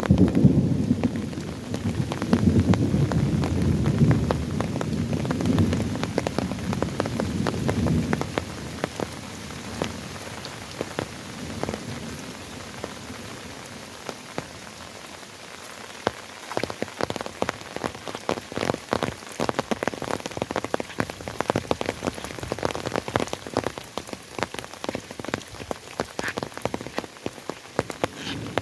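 Steady rainfall hissing, with many close drops ticking sharply on a surface, thicker in the second half. A low rumble runs under the first eight seconds or so, then dies away.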